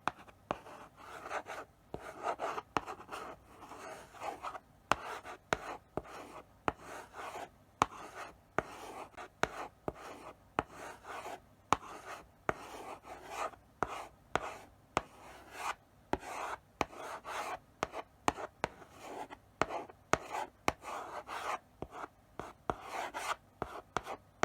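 Chalk writing slowly on a blackboard: short scratchy strokes, one after another, with sharp taps where the chalk meets the board at the start of each stroke.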